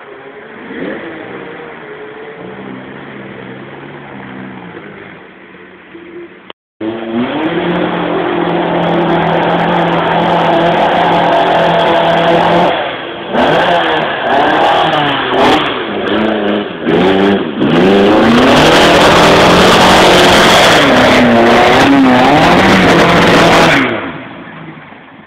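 Classic car engine working under load on a steep dirt climb, revving repeatedly up and down. It is quieter at first, breaks off suddenly about a quarter of the way in, then comes back much louder, and ends in several seconds of hard, steady revving that stops near the end.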